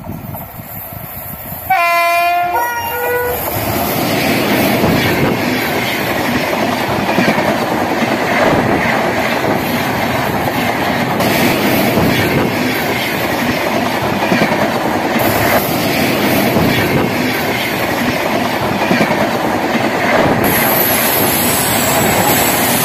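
Passenger train passing close by: the locomotive sounds its horn about two seconds in, the tone dropping in pitch as it goes by, then the coaches run past with a loud steady rumble of wheels on rails.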